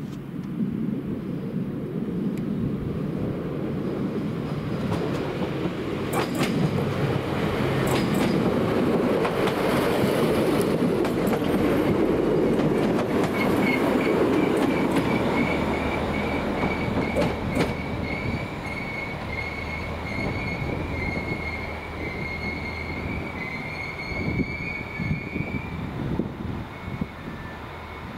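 SA139 diesel multiple unit pulling into the platform: clicking over the rail joints, then a loud rush of wheel noise as it passes close by. For the second half a high brake squeal rises slightly in pitch as the train slows to a stop, with the diesel engine humming low underneath.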